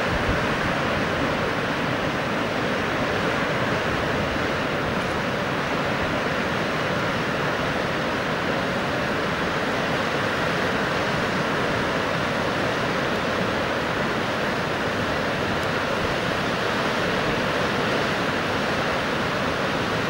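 Indus River water rushing steadily, an even, unbroken roar of fast-flowing river.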